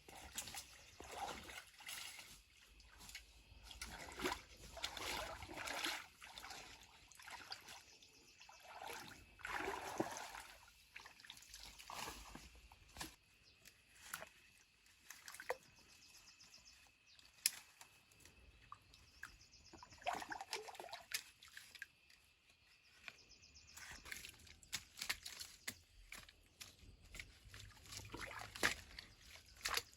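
Water sloshing and trickling in irregular splashes, with scattered sharp clicks and knocks.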